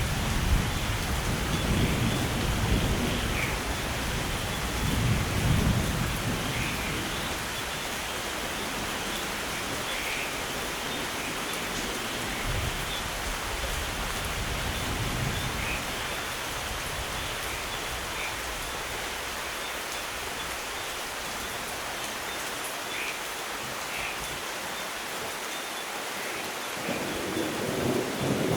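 Steady rain falling, with a low thunder rumble dying away over the first few seconds and another roll of thunder building near the end. A few short bird chirps sound over the rain.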